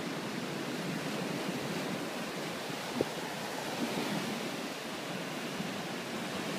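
Ocean surf washing on a beach, a steady wash of breaking waves with wind on the microphone. A single short click about three seconds in.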